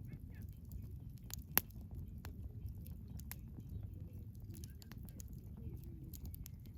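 Wood campfire burning: a low steady rush of flames with scattered crackles and small pops, and one sharp, loud pop about a second and a half in.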